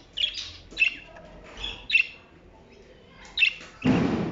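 Pet finches giving short, sharp chirps, four of them spaced roughly a second apart, followed near the end by a brief loud burst of noise.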